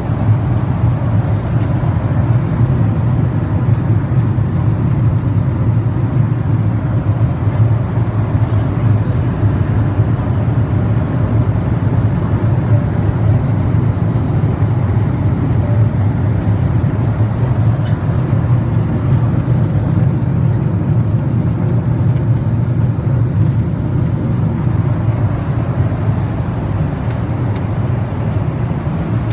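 Airliner cabin noise in flight: a loud, steady, deep drone of engines and rushing air that does not change.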